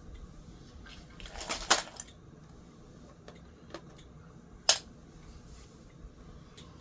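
Metallic clinks and a brief rattle about a second and a half in, then one sharp clink near five seconds and a few lighter ticks, as metal fan parts are handled.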